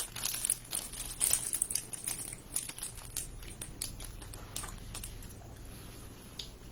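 Plastic snack wrapper crinkling as it is handled, a quick irregular run of crackles that thins out after about four seconds.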